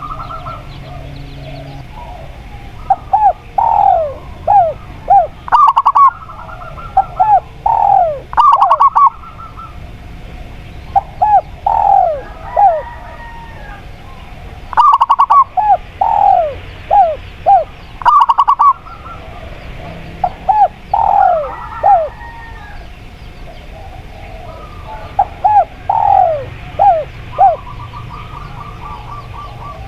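Captive doves cooing in repeated phrases of short, falling coos, a new phrase every few seconds. Some notes are loud enough to distort.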